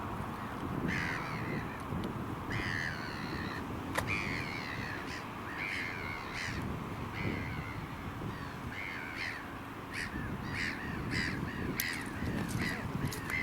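A bird giving a run of short, harsh calls, about one a second at first and coming faster near the end, over a steady low background rumble.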